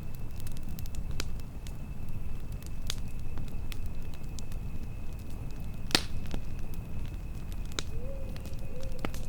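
Campfire crackling, with sharp scattered pops, the loudest about six seconds in, over a steady low rumble of wind. A thin steady high tone runs underneath, and a short low call sounds twice near the end.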